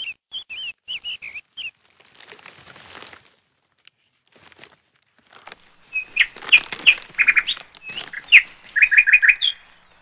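A small bird chirping in quick short notes, first in a brief run and then more loudly in the second half with a fast little trill near the end. Under and between the chirps comes a crisp crunching of a knife cutting into a firm raw vegetable, about two seconds in and again from about six seconds.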